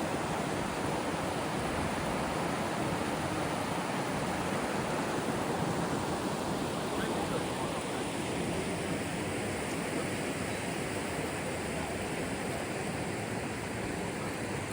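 Steady rush of whitewater from the North Fork Skokomish River's rapids, an even roar with no breaks.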